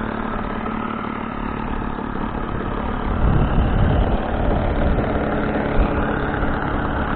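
Saito 40 four-stroke glow engine of an RC model airplane idling steadily with a low purr, growing a little louder about three seconds in.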